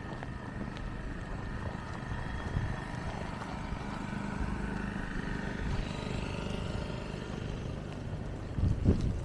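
A motor vehicle running steadily: a low, even rumble with a few faint steady tones above it.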